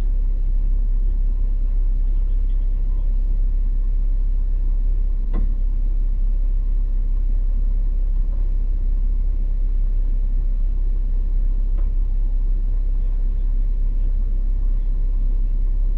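Steady low rumble of a vehicle running or driving, with a sharp click about five seconds in.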